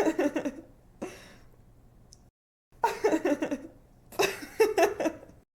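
A young woman laughing in several short giggling fits with brief pauses between them; the laughter breaks off abruptly near the end.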